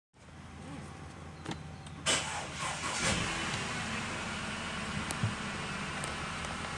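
Audi Q5 engine running at a steady idle, with two sharp rattling knocks about two and three seconds in.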